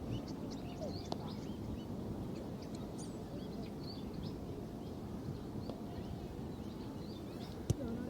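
Small birds chirping in quick, repeated short calls over a steady low background rumble.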